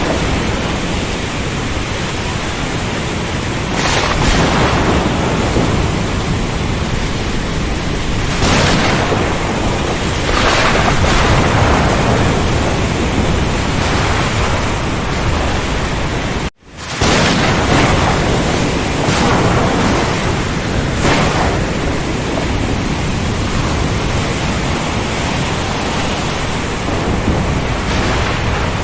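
Heavy, steady rain with a dense hiss, swelling in intensity every few seconds. It cuts out for a split second about halfway through and then comes straight back.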